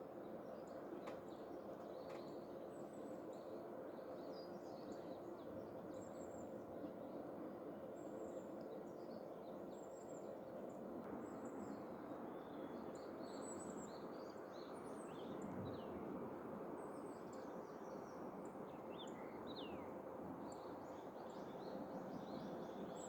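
A stream of clear water flowing steadily, with birds chirping over it in many short, high calls that grow busier in the second half.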